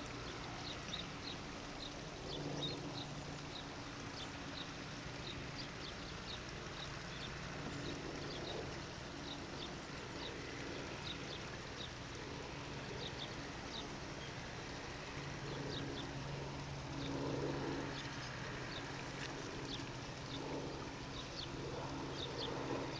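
Small birds chirping over and over in short high notes, with a low steady hum underneath.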